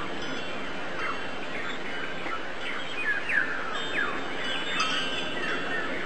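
Small birds chirping in quick, short downward notes, several scattered through each second, over a steady background hiss.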